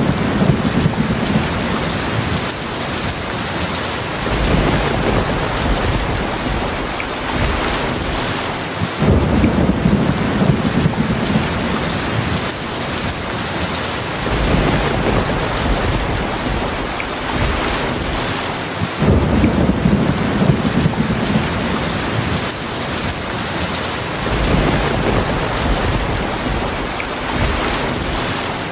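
Heavy rainstorm: a steady, dense hiss of rain with low thunder rumbling, swelling up about every five seconds.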